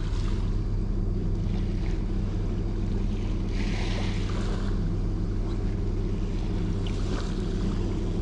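A steady low engine hum, even and unchanging, typical of a boat running offshore. A brief rush of hissing noise rises over it near the middle.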